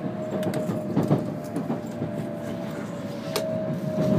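Cabin sound of an N700 series Shinkansen running into a station: a steady rumble from wheels and track with a steady whine, and a few irregular sharp knocks from the wheels over the rails.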